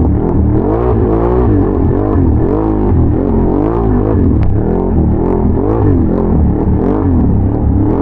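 ATV engine being ridden with the throttle worked constantly, its pitch rising and falling about twice a second over a steady low rumble.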